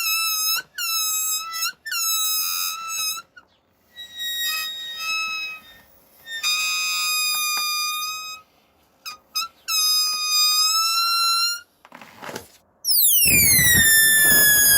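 Rubber balloons squealing as air escapes through a neck stretched tight: a string of short wavering squeals separated by pauses, then near the end a long squeal that falls steeply in pitch and levels off, with the rush of air beneath it.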